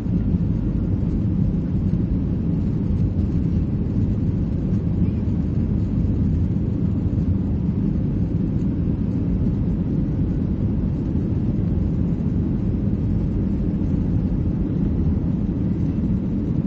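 Cabin noise inside a Boeing 737-800: its CFM56 jet engines and the rushing airflow make a steady low rumble that does not change in pitch or level.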